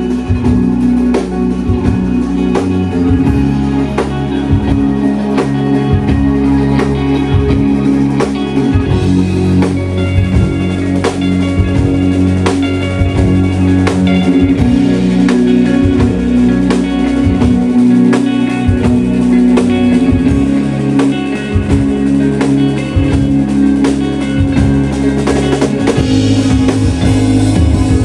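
Live shoegaze rock band playing loudly: dense, sustained distorted guitars over bass and a drum kit keeping a steady beat.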